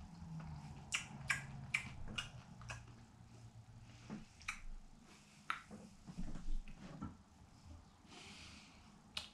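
Dried grasshoppers crunched between the teeth: a run of crisp crunches, two or three a second, starting about a second in, then more scattered crunches.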